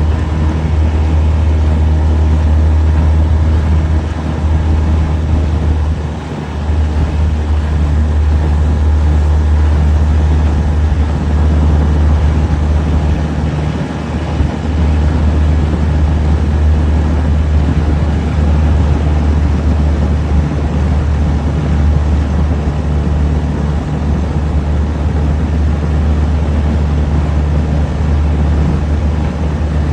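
Small boat's motor running steadily under way, with a deep hum and the rush of the hull moving over the water. It eases briefly a few times.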